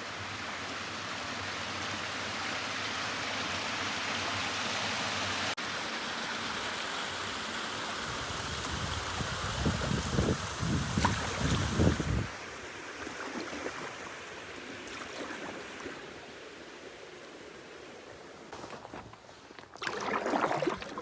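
Waterfall rushing steadily, with a few seconds of irregular low rumbling about halfway through.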